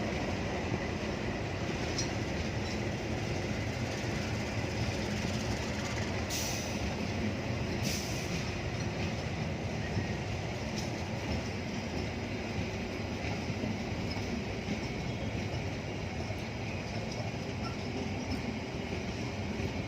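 Train rolling past on the rails, a steady continuous rumble of wheels on track, with two brief high clicks about six and eight seconds in.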